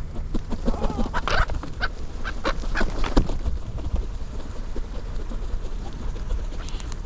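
Gulls calling and squabbling in a feeding frenzy, with a burst of sharp calls in the first three seconds that then dies down, over a steady low rumble.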